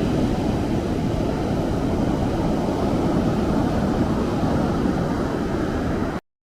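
Steady low roar of ocean surf and wind on a small handheld camera's microphone, cutting off abruptly into silence about six seconds in.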